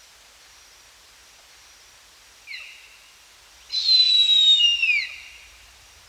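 A bird of prey calling: a faint short call about two and a half seconds in, then a loud, high whistled scream about a second and a half long that slides down in pitch at its end.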